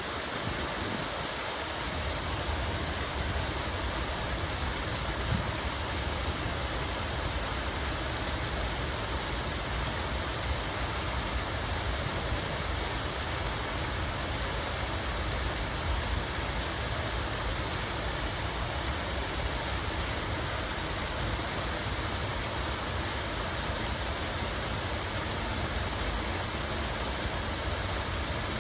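Flowing water rushing steadily, an even hiss with a low rumble underneath.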